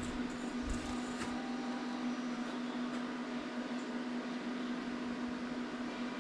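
Steady mechanical hum with a constant low tone and a hiss over it, with a few light knocks about a second in.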